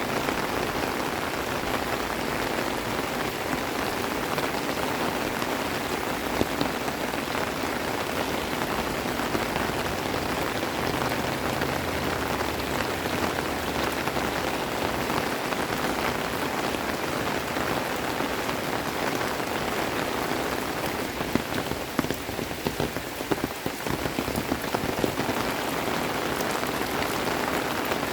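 Steady rain falling, a dense even patter of drops. About three-quarters of the way through there is a spell of sharper, louder drop hits.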